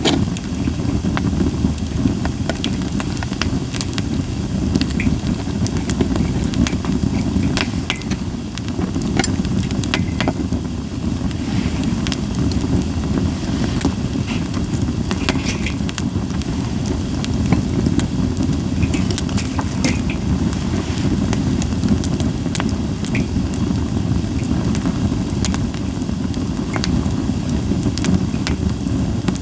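Campfire of Japanese white pine crackling, with scattered sharp pops and snaps and little hissing, over a steady low rumble.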